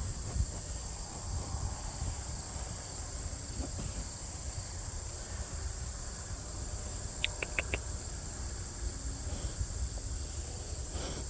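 Insects chirring steadily at a high pitch, with a low rumble underneath. About seven seconds in comes a quick run of four short, high chirps.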